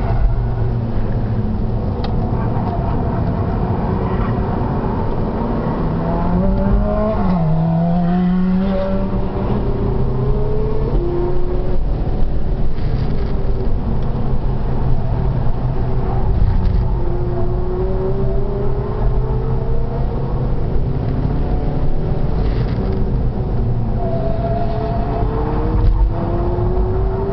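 Seat Altea FR engine heard on board under hard driving on a race track, its note climbing steadily as the car accelerates and dropping back at each gear change, several times, over steady road and wind rumble.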